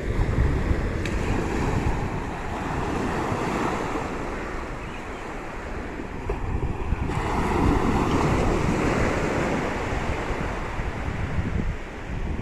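Sea waves washing onto the shore, swelling and easing, with wind buffeting the microphone.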